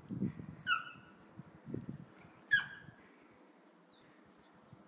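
Bird chirps: two short calls that sweep down in pitch and hold briefly, the second the loudest, then a few faint high chirps near the end. Two low thumps come early on, before each louder call.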